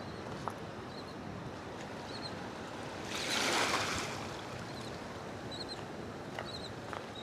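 Sea water washing against the shore over a steady hiss, with one louder surge of water about three seconds in. Faint short chirps recur now and then.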